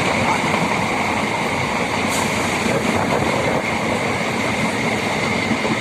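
MEMU electric train running, heard from inside the coach: a steady rumble and hiss with a constant high hum.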